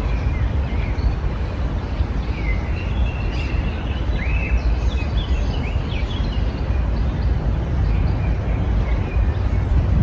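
Wild songbirds chirping and calling in short, overlapping phrases, busiest in the middle seconds, over a steady low rumble.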